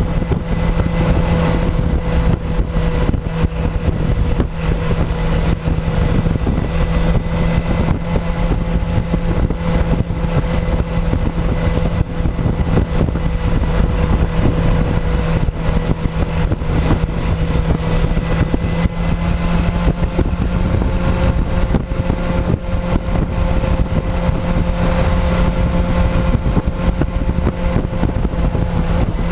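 Motorcycle engine running at a steady pitch while riding, heard close up from a tank-mounted camera, with constant wind and road noise.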